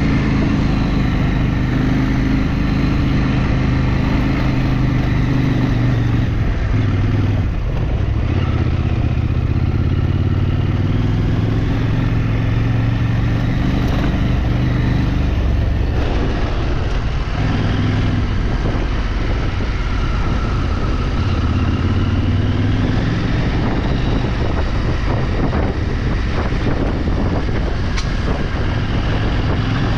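Motorcycle engine running while being ridden, its revs rising and falling again and again with the throttle.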